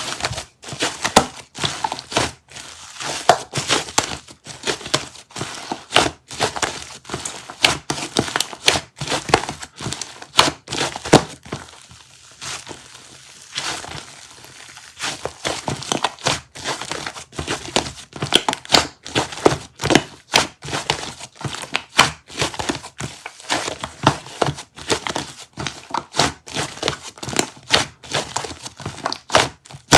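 Crinkling, crackling handling noises: many short sharp clicks in quick, irregular succession, easing off for a few seconds in the middle.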